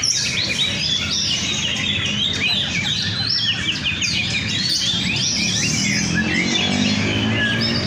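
Several Oriental magpie-robins (kacer) singing at once, a dense, continuous tangle of overlapping whistled and chirping phrases. A faint low pitched sound runs underneath, stronger near the end.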